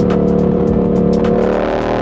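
Yamaha MT-07's 689 cc parallel-twin engine running under way at a steady pitch that creeps slightly upward, then breaks up near the end.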